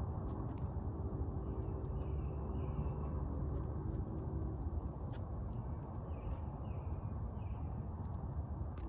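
Outdoor evening ambience: a steady low rumble under a faint high steady hiss, with short bird calls in two groups of three, about two seconds in and again about six seconds in.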